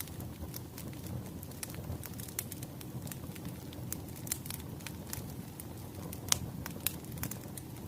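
Wood fire crackling: a steady low rumble of burning logs with irregular sharp pops and snaps, the loudest pop a little past six seconds in.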